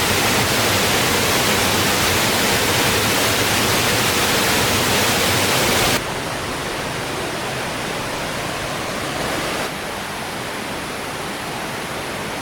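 Steady, loud rushing noise with no distinct events, like flowing water; it cuts abruptly to a somewhat quieter rush about six seconds in.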